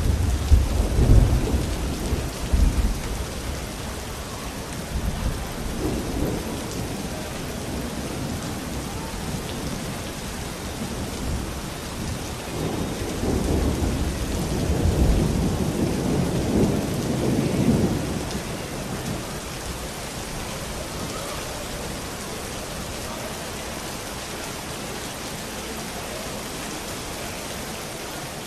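Steady heavy rain with thunder rolling twice: a deep rumble right at the start that dies away over a few seconds, and a longer, swelling roll from about twelve to eighteen seconds in.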